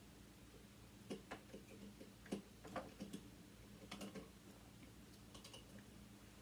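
Faint, scattered light clicks and taps of small sewing machine motor parts being handled during disassembly, about eight of them between one and four and a half seconds in, in otherwise near silence.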